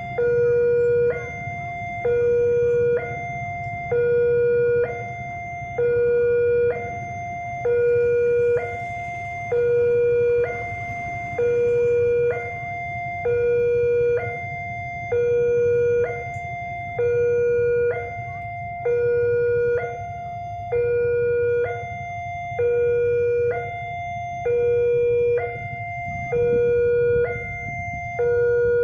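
Railway level-crossing warning alarm sounding a steady two-tone signal: a lower tone and a higher tone swap about once a second, and the lower tone is the louder of the two. The alarm warns that a train is approaching and the crossing is closing. A steady low rumble runs beneath it.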